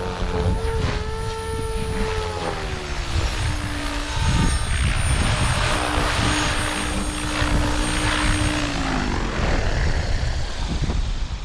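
Electric RC helicopter (OMPHOBBY M4) in flight: the rotor and motor whine wavers and drops in pitch a few seconds in, holds a steady tone, then falls away near the end.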